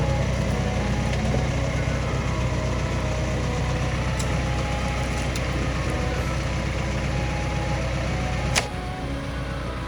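Diesel engine of a Massey Ferguson 84-horsepower tractor running steadily with a low hum, with one sharp click or knock near the end.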